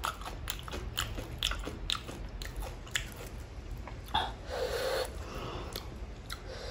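A person chewing spicy pani puri close to the microphone, with irregular crunches of the crisp puri shells.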